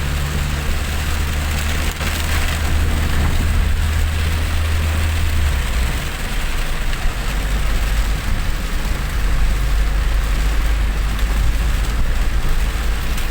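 A vehicle travelling on a wet road in the rain: a steady low engine and road drone under an even hiss of rain and wet tyres. The hiss swells briefly a couple of seconds in, and the low drone drops in pitch about halfway through.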